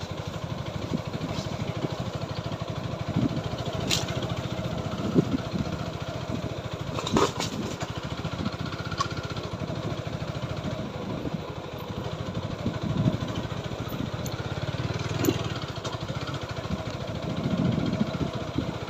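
A TVS Apache 4V motorcycle engine runs steadily while the bike is ridden, with a couple of sharp clicks or knocks about four and seven seconds in.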